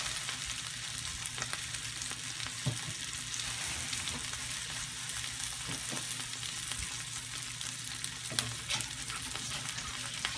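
Sauce-glazed chicken thighs sizzling on a ribbed double grill pan: a steady frying hiss with a few brief crackles.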